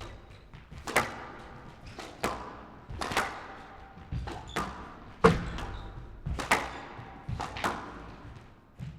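Squash rally: the rubber ball cracking off rackets and the court walls in sharp strikes about once a second, each with a short echo.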